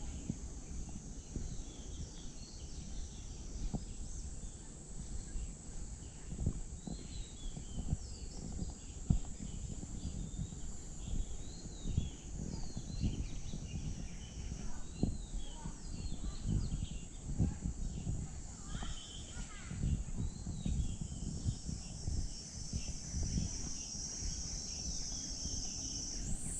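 Steady, high-pitched insect drone with birds chirping over it, and irregular soft thumps of footsteps on a walk. The insect drone swells louder near the end.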